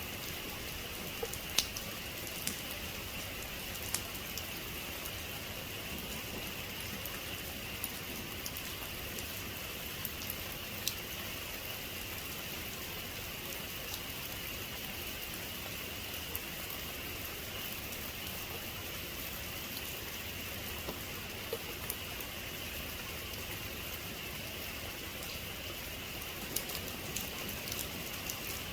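Steady heavy rain: an even hiss of rainfall with scattered sharp taps of single drops.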